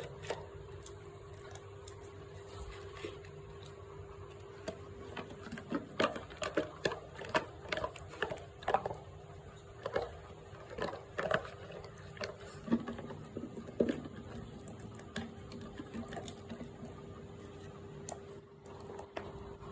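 Chewing on mutton: irregular wet clicks and smacks, thickest in the middle of the stretch, over a steady low hum.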